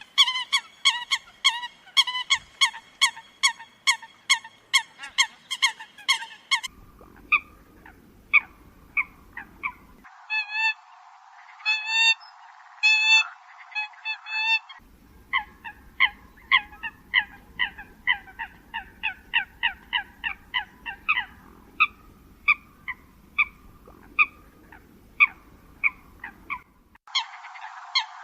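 Eurasian coot calls: short sharp honking notes repeated rapidly, about three a second. The recording is spliced from several takes, with sudden changes in the background between them.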